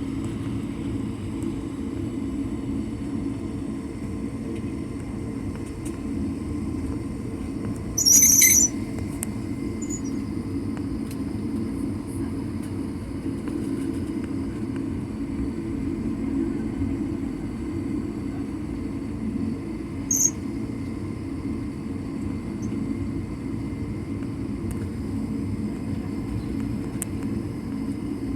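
Steady low hum of a jet airliner heard from inside the cabin before takeoff, with a short high-pitched sound about eight seconds in and a fainter one about twenty seconds in.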